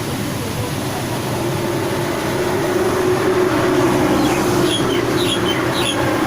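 A steady rumble with a low hum that swells through the middle, from a passing vehicle, probably a train. Near the end come a few short, high, falling bird chirps.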